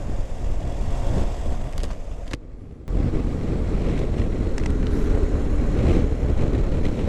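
Motorcycle riding in traffic: a steady low rumble of engine and road with wind buffeting the microphone. The sound briefly drops away for about half a second, roughly two and a half seconds in.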